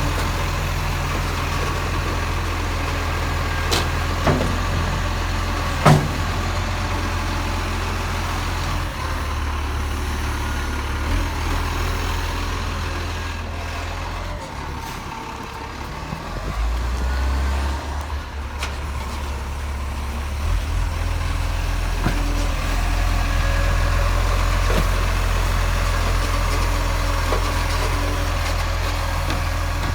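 Garbage truck engine running with a steady low rumble as the truck drives. There are a couple of sharp clicks or knocks in the first six seconds, and the engine note drops for a few seconds about halfway through.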